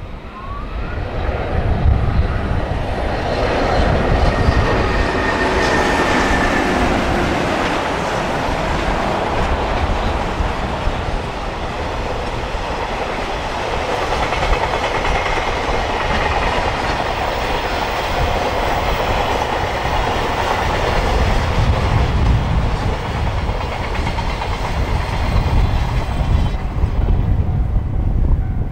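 A long freight train passing close by, its wagons rolling over the track in a continuous rumble for nearly half a minute. The noise thins out near the end as the train goes by.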